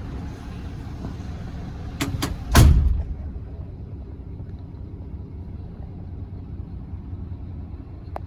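A 2011 Scania R480's six-cylinder diesel idling steadily, with two quick clicks and then a heavy door slam about two and a half seconds in, after which the sound is duller.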